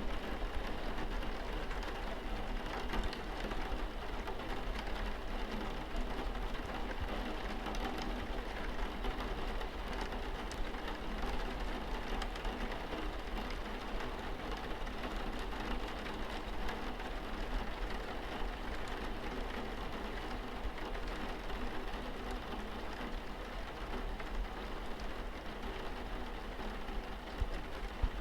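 Rain falling steadily on a car's windscreen, many small drops striking the glass.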